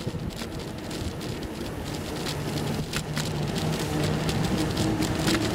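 Bicycle ride noise: tyres crackling and clicking over a rough surface, with a faint steady low hum coming in about two seconds in.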